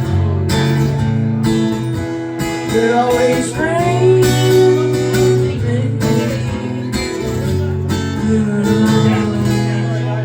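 Acoustic guitar strummed in steady chords, playing out the closing bars of the song after the last sung line. The strumming stops near the end, leaving the final chord ringing.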